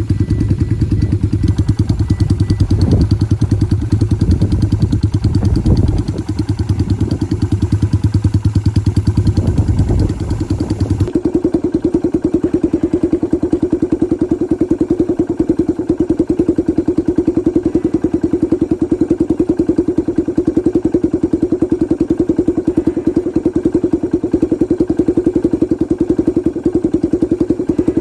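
Yamaha Virago 250's air-cooled V-twin engine running steadily, with a fast even beat of firing pulses and a few knocks in the first ten seconds or so. The engine's tone changes abruptly about eleven seconds in.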